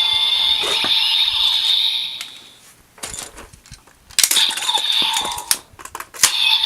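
Evolt Driver toy belt playing its electronic sound effects through its small speaker, which fades out about two and a half seconds in. Sharp plastic clicks follow as full bottles are handled in the belt, then the belt's electronic sound starts again about four seconds in, with a few more sharp clicks near the end.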